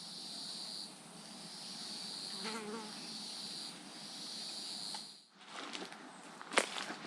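Swamp insects buzzing in a steady high drone, in long phrases with short breaks. The buzzing stops about five seconds in, and a single sharp click follows near the end.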